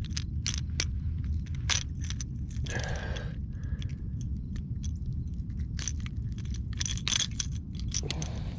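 Rat-L-Trap lipless crankbait and its treble hooks rattling and clicking in irregular sharp bursts as a hooked bass is handled and shakes, over a low steady rumble of wind and handling noise.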